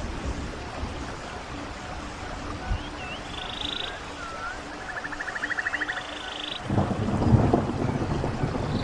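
Running stream with birds calling: short rising whistles, each followed by a buzzy trill, in the middle. About seven seconds in, a loud low rumble comes in suddenly and carries on over the water.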